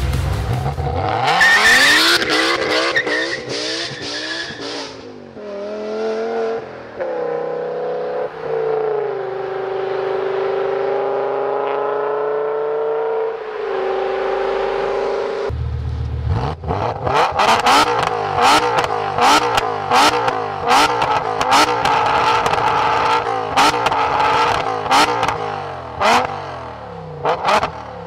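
BMW M5 E60 Touring's G-Power bi-supercharged V10 accelerating hard, its pitch rising and stepping down at each upshift as the car pulls away. Past the halfway point it is revved again and again in short blips at standstill, with sharp cracks from the exhaust.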